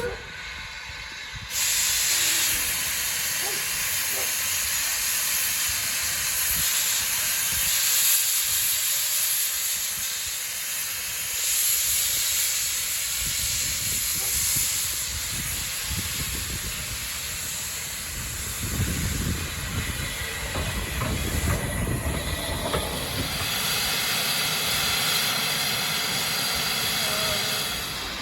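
Steam locomotive hissing steadily as steam escapes, starting about a second and a half in. Lower rumbling and knocking join the hiss in the second half.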